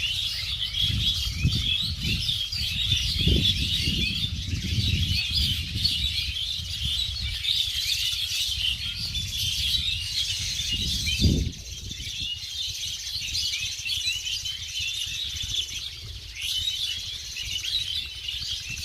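A dense chorus of many small birds chirping and twittering at once, without a break. Underneath, low rumbling comes and goes for the first eleven seconds or so and ends in a short thump, after which only the birds remain.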